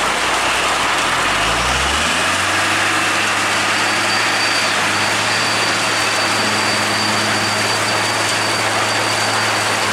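Heavy truck engine rising in pitch over the first two seconds, then running steadily under load, with a thin high whine joining about four seconds in. Heavy rain hisses throughout.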